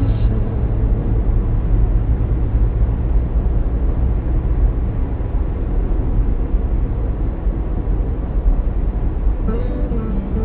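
Steady low rumble of a moving vehicle, the even road and engine noise of driving, with music coming back in faintly near the end.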